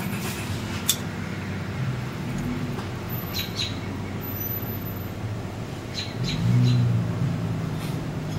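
Outdoor ambience: a few short, high bird chirps in pairs and threes over a low, steady engine hum that swells about six seconds in, with one sharp click about a second in.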